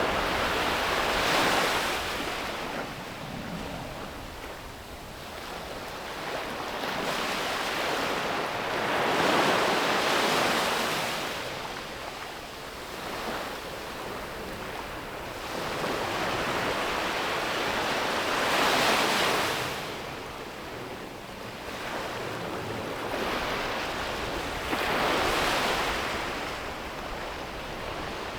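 Ocean surf breaking and washing up a beach: four swells of rushing water come several seconds apart, with a softer hiss between them.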